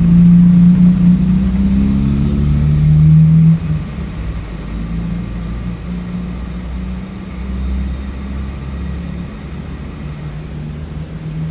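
Car engine idling, a steady low hum heard from inside the stopped car, dropping noticeably in level about three and a half seconds in.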